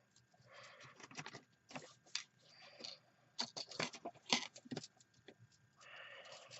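Hands rummaging through small metal cutting dies and their packaging: a string of light clicks and taps with short rustles in between.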